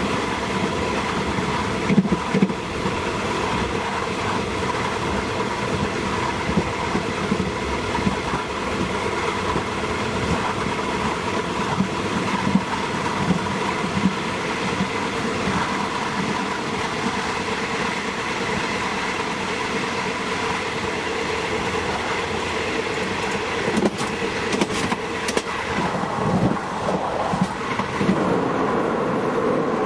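State Railway of Thailand diesel train running along the track, heard from on board: a steady running noise with a hum of several steady tones. A few sharp clicks come near the end.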